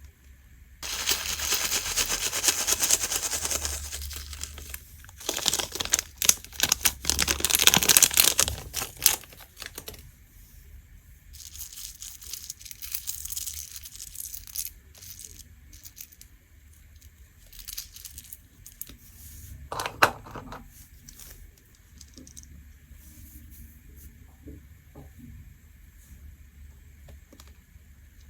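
Slime being worked by hand, crackling and crinkling. It is loud in two long stretches over the first ten seconds, then turns quieter and scattered, with one sharp pop about twenty seconds in.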